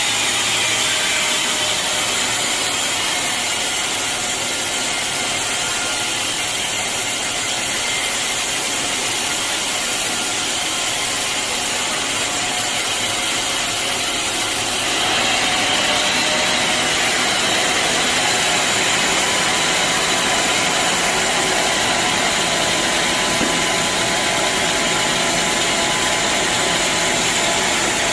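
Band sawmill running steadily through a teak log. About fifteen seconds in, the sound gets slightly louder and brighter.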